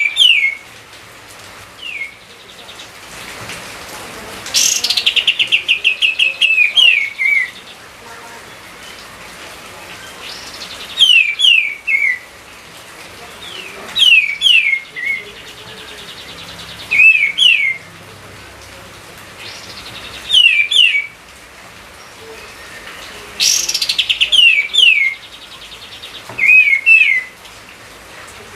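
A songbird singing in short repeated phrases, one every two to three seconds, each made of quick downslurred whistles and rapid trills.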